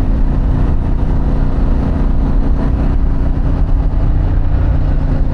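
Harley-Davidson Pan America's V-twin engine with a Vance & Hines exhaust, running steadily under way with no change in pitch.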